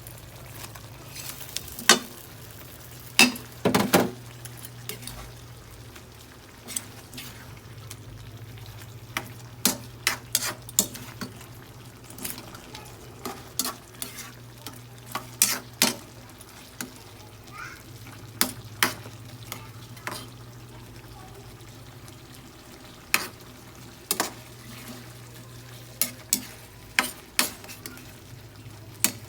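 Chicken and mushrooms cooking in a pan while being stirred, with a utensil knocking and scraping against the pan in irregular sharp clacks over a steady low hum.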